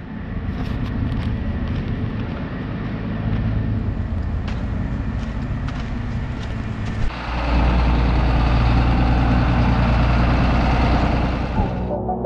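A vehicle engine running steadily, getting louder about seven seconds in and stopping near the end.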